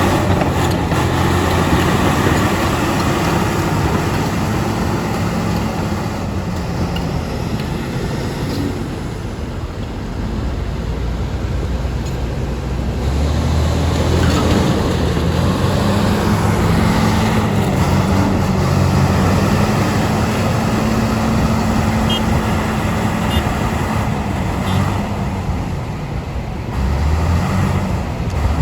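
Crawler bulldozer's diesel engine running under heavy load, its pitch and loudness rising and easing as it works.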